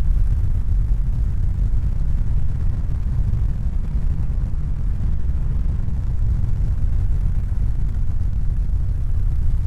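Steady low rumbling noise, heavy in the bass, with no distinct tones or rhythm.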